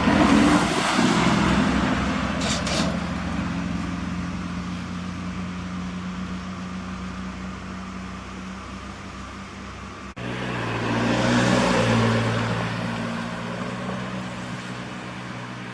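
Trucks driving past one at a time with engines running. The first fades away; after an abrupt cut about ten seconds in, a second truck passes, loudest about a second and a half later, then fades.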